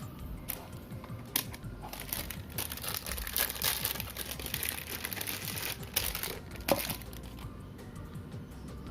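Close-up handling noise while working on a wristwatch: rustling and scraping with a few sharp clicks, the loudest about seven seconds in, over quiet background music.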